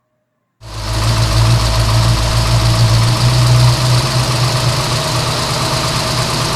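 A motor vehicle engine idling steadily. The sound comes in abruptly from silence just over half a second in and holds at an even level.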